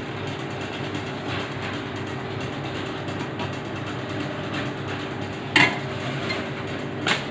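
Steady mechanical hum from a running machine, with a sharp click about five and a half seconds in and a lighter one near the end.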